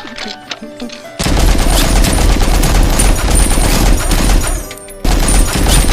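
Faint music, then about a second in a sudden loud burst of dense crackling noise with a deep rumble underneath. It breaks off for a moment near the end and starts again.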